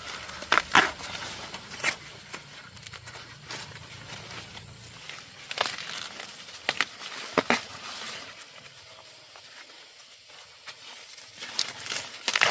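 Intermittent rustling and crackling with a series of short, sharp snaps at irregular intervals, like dry material being crumpled or handled.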